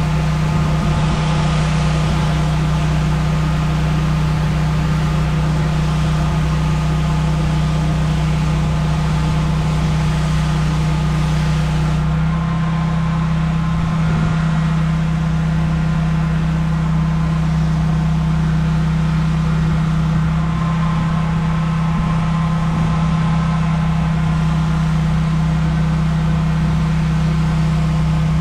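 Gas pressure washer engine running steadily at a constant speed, with a high hiss over it that drops away about twelve seconds in.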